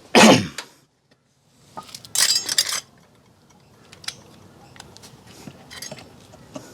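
Clinking and clattering of small hard objects being handled: a loud burst at the start, another about two seconds in, then scattered faint clicks.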